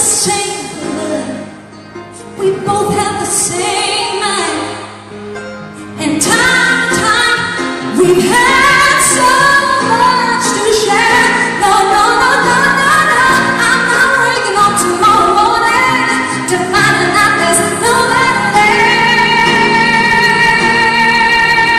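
Live performance of a female singer belting a ballad over band accompaniment. It starts softer, grows louder about six seconds in with runs that bend up and down, and ends on a long held note with vibrato.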